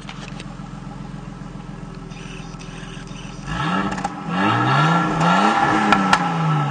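Nissan Skyline GTS-T's turbocharged 2.0-litre RB20DET inline-six heard at the exhaust tip, idling steadily and then revved in a few quick blips. The pitch climbs and falls with each blip and drops back toward idle near the end.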